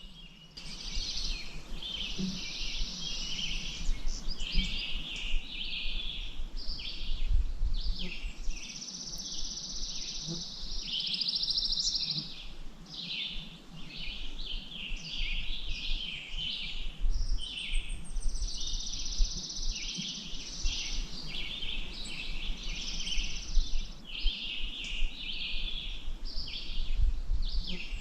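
Songbirds singing and chirping in dense, overlapping song that starts about half a second in and barely pauses, over a low rumble.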